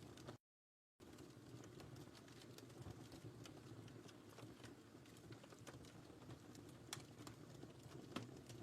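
Wood fire crackling in a fireplace: a soft steady rumble and hiss with scattered sharp pops, the two loudest near the end. The sound cuts out completely for about half a second near the start.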